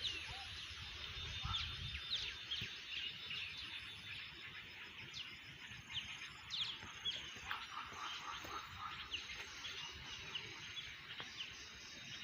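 Small birds chirping: many short, high chirps, scattered irregularly over a faint steady outdoor hush.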